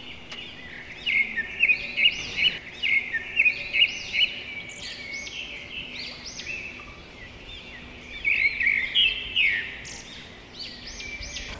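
Birds chirping: many short, high chirps in quick clusters, with a lull about seven seconds in.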